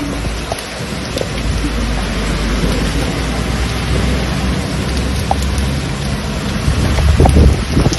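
Heavy rain pouring down, with a deep low rumble beneath it that swells to its loudest about seven seconds in.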